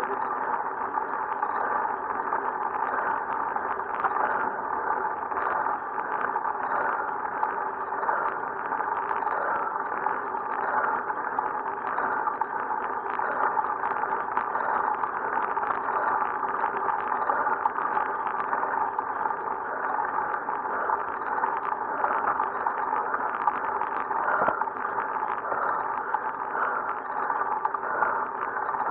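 Steady wind and road noise of a bicycle being ridden, a constant even rush with no breaks.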